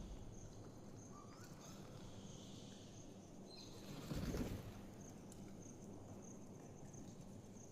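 Faint outdoor nature ambience: a high insect chirp pulsing at a steady rate, with a few short bird chirps. A brief rustle rises and fades about four seconds in.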